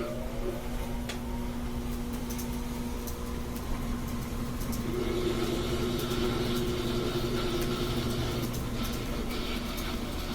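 GE top-load washer running its spin cycle: a steady motor hum with a whine that rises in pitch early on, then holds, and a louder hiss joining about halfway through. The washer spins again now that the cleared pressure-switch tube lets it sense an empty tub.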